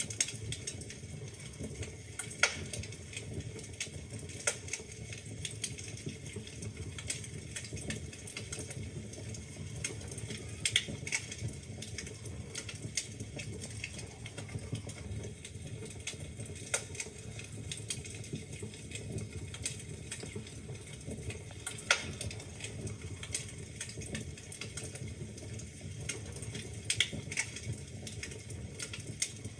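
Wood fire in a fireplace crackling, with irregular sharp pops and snaps over a low steady rumble of the flames; a few louder pops stand out, one about two seconds in and a loud one past the middle.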